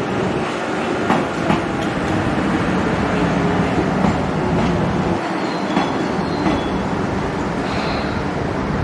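Train running on the rails: a steady rumble with a few sharp clicks as wheels pass rail joints.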